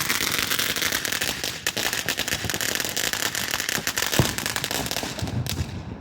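Consumer fireworks going off: a dense run of crackling and sharp pops that thins out and dies away about five seconds in.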